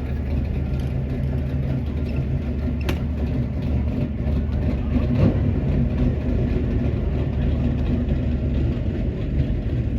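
A car engine running at a steady idle, with a brief swell a little after five seconds and one sharp click about three seconds in.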